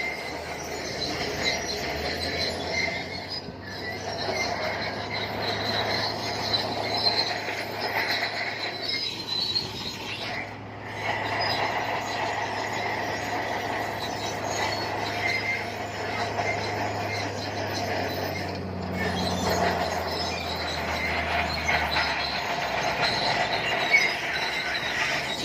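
Shantui crawler bulldozer working: steel tracks squealing steadily over a low diesel engine drone. The drone comes in about two seconds in and drops away a few seconds before the end.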